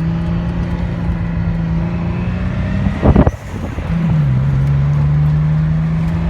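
Nissan 300ZX Twin Turbo's VG30DETT V6 heard from inside the cabin, pulling at steady revs. About three seconds in there is a brief loud burst and a short drop in sound as the throttle closes for a shift, and the engine then runs on at lower revs.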